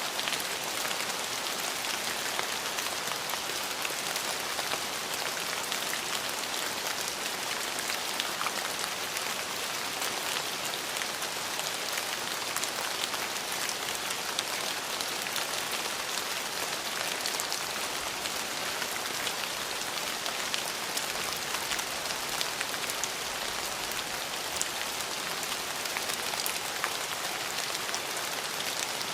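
Steady rain falling on hard surfaces, a dense even hiss with many small individual drops pattering through it.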